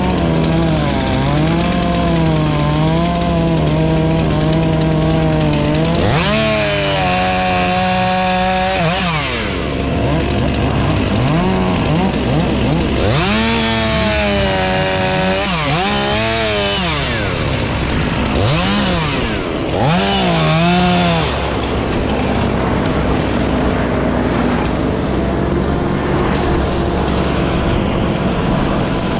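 Chainsaw running and cutting wood, its engine revving up and dropping back several times as the throttle is worked.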